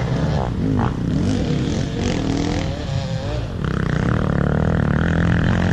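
Dirt bike engines running, revving up and down with a wavering pitch; a steadier, higher engine sound comes in about halfway through.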